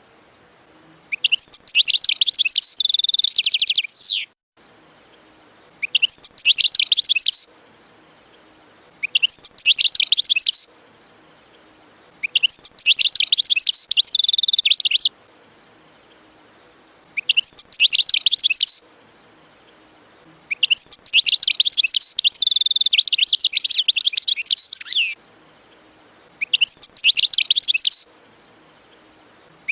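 European goldfinch singing: seven phrases of fast, high-pitched twittering and trills, separated by short pauses. The longest phrase runs about five seconds, past the middle.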